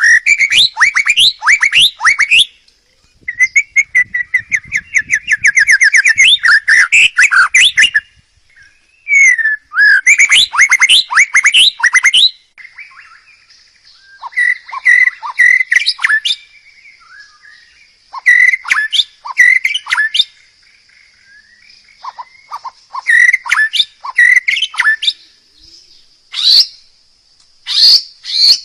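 Songbird singing loud phrases of rapid whistled notes and trills, broken by short pauses. From about halfway a thin, steady high tone runs underneath.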